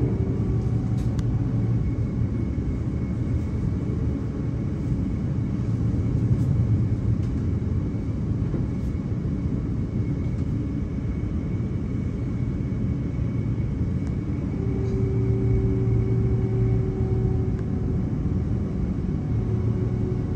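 Electric suburban trains running: a steady low rumble of wheels on track, with a faint hum that fades in and out, most clearly between about 15 and 18 seconds in.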